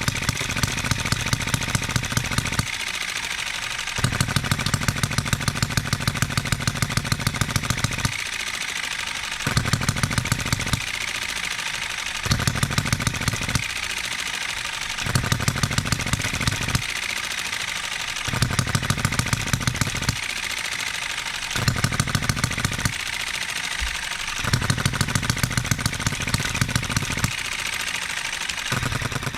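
Enjomor 6cc single-cylinder hit-and-miss model engine running on its governor: a run of rapid firing strokes, then a second or so of coasting with only light mechanical clatter, then firing again, about nine times over. Its governor is still being tuned, and the hits come somewhat unevenly.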